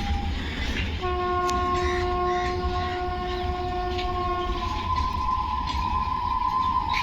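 Horn of a WAP-7 electric locomotive sounding a long chord blast about a second in, held for about three and a half seconds, then a second, differently pitched blast that carries on to the end, over the steady rumble of the passing train with a few wheel clicks.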